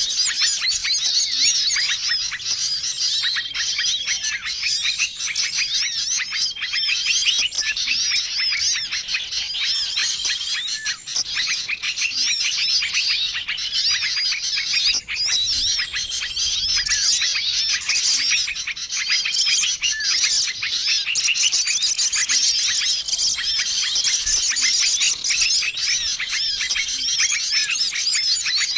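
A bird-lure mix of many small songbirds chirping and trilling all at once in a dense, busy chorus, with a short flat whistle repeating every few seconds. It is a lure track meant to draw small wild birds in.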